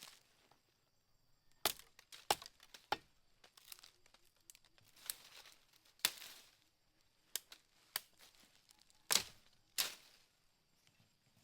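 Dry sticks and branches snapping and cracking: about eight sharp cracks at uneven intervals, with fainter crackling between them.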